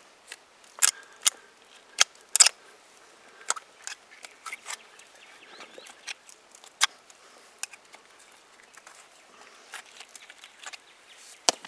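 Hoof pick scraping and knocking packed dirt out of a horse's hoof: irregular sharp clicks and scrapes, a few louder ones about a second and two seconds in and again near the end.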